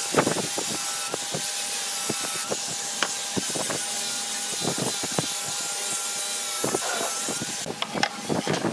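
Wood being worked by hand tools: steady rubbing and scraping with scattered sharp knocks and taps of tool on wood, bunched in short runs.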